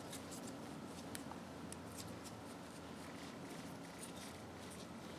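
Faint light scratching and scattered small clicks of hand work on small metal parts, over a steady low hum.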